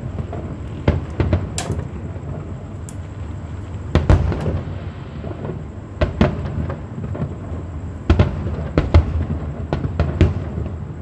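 Fireworks shells bursting in a string of booms with rumbling echoes, one every second or two, the heaviest about four seconds in and around eight to nine seconds in.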